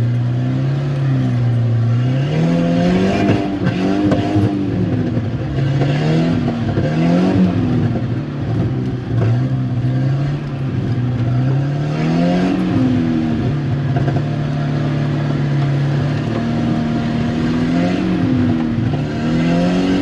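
Volvo 740 Turbo's turbocharged four-cylinder engine revving hard on a muddy rally course: the engine note repeatedly climbs and drops back as the throttle is worked, with several rises around 2–4, 6–7, 12–13 and 18–20 seconds in.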